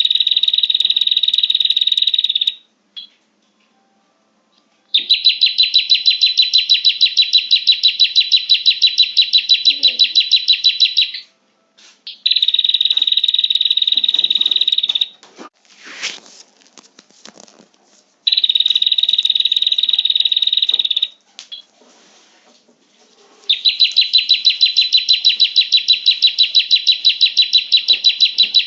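Prinia (prenjak) calls played as a lure: loud bouts of high, rapid chattering trills, with shorter, even, buzzy bouts alternating with longer, rapidly pulsed ones, separated by brief pauses.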